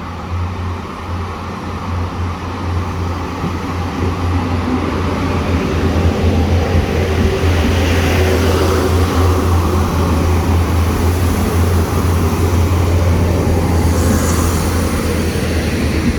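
Northern Ireland Railways diesel multiple-unit train passing close by a level crossing: a steady low engine drone with rushing wheel noise, building over the first few seconds and then holding loud and steady.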